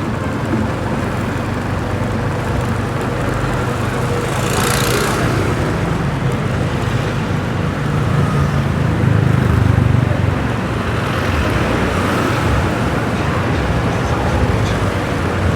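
Motorbike engine running steadily while riding through city street traffic, growing louder about eight to ten seconds in. A brief hiss sounds about five seconds in.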